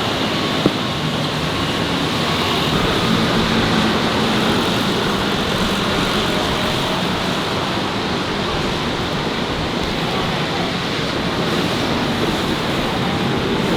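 Steady street traffic noise: the continuous wash of passing vehicles on a busy city road, with a single sharp click under a second in.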